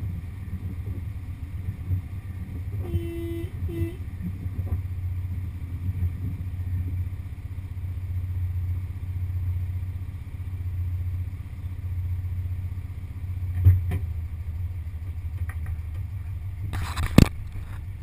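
1974 VW Beetle's air-cooled 1600cc flat-four engine idling steadily with the car standing still. There are two short beeps about three seconds in, a knock near 14 seconds, and a louder knock near the end as a finger touches the camera.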